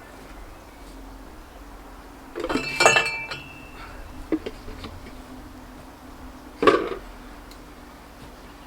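Two short bursts of metallic clinking and clanking, the first about two and a half seconds in with a brief ringing note, the second near the end; a few small ticks between them.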